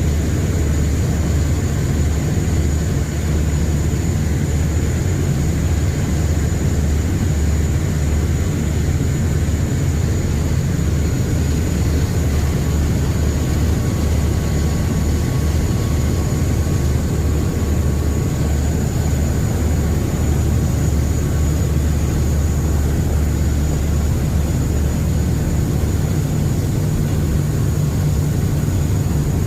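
River passenger boat's engines running steadily, heard on board: a loud, even, low drone that does not change.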